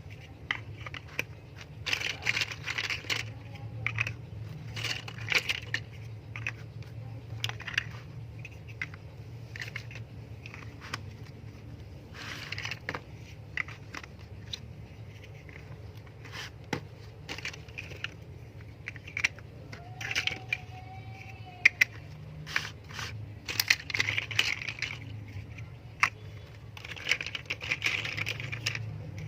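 Plastic LEGO bricks clicking, rattling and scraping as they are handled and pressed together, in irregular clusters of sharp clicks over a steady low hum.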